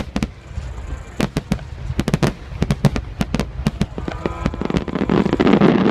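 Fireworks display: a rapid string of sharp bangs and crackles from bursting shells, thickening near the end into a dense, continuous crackling din.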